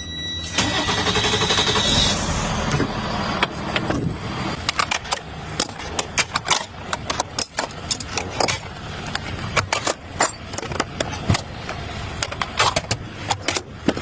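A truck engine running just after being turned on. About half a second in, a rushing noise with a high steady whine starts and lasts about three seconds. It is followed by many irregular sharp clicks and knocks over the running engine.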